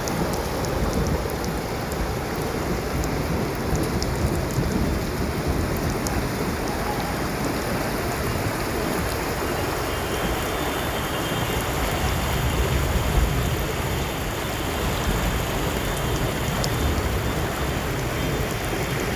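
Heavy rain falling steadily, with scattered sharp drop ticks over the constant hiss.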